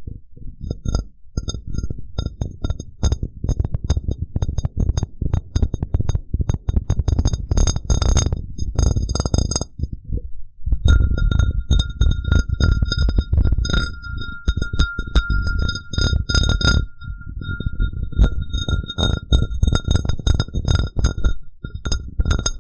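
Glass cup tapped and rubbed in quick succession close to the microphone: many dull, close thuds with clinks, and the glass ringing with a clear tone that grows stronger about halfway through.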